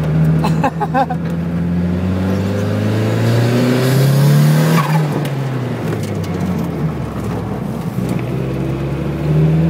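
Opel Speedster Turbo's turbocharged four-cylinder engine heard from inside the cabin under hard acceleration on track: the revs climb for a few seconds, drop sharply about five seconds in as the driver shifts or lifts, then build again near the end.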